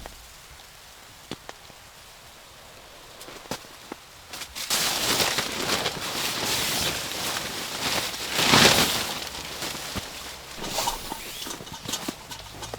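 A few faint clicks, then from about five seconds in a stretch of rustling and scraping, loudest a little past the middle.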